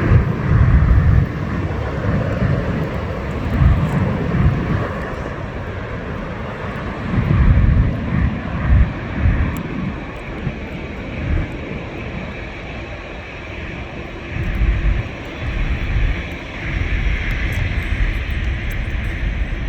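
Jet airliner engines running, a steady rushing roar that swells again near the end, with wind buffeting the microphone in irregular low gusts.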